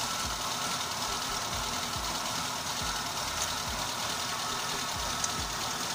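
Car engine idling unevenly, with low pulses about twice a second. The engine is slightly misfiring, running as if on three cylinders.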